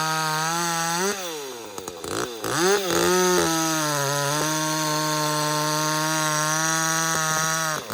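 Ported 30cc two-stroke Echo CS-310 chainsaw running at high revs while bucking oak rounds. Its note drops about a second in, comes back up in a couple of quick revs, holds steady at full throttle through the cut, and falls off again near the end.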